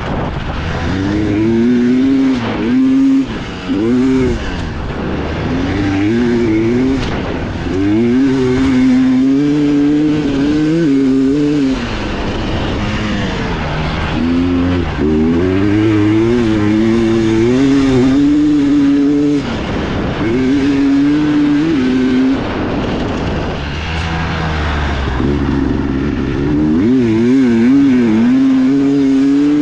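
Dirt bike engine heard on board, revving up and down as the rider works the throttle and shifts: the pitch climbs, eases off and climbs again every few seconds, with short drops as the throttle is shut.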